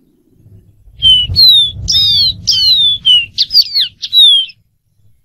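Dark-throated seedeater singing one song phrase of about nine quick, clear whistled notes, most of them slurring downward. The phrase starts about a second in and lasts about three and a half seconds, with a low rumble under its first half.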